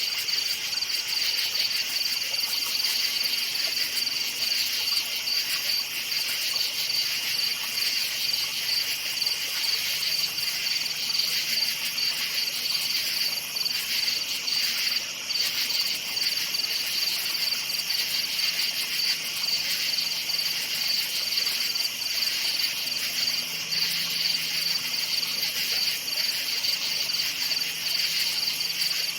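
Crickets chirping steadily in a dense, continuous night chorus, a high trilling pulse that never lets up.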